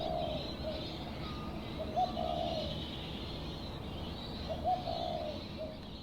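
A bird repeats a short low two-part call three times, about every two and a half seconds: a quick rising note, then a longer burry one. A steady high hiss runs underneath.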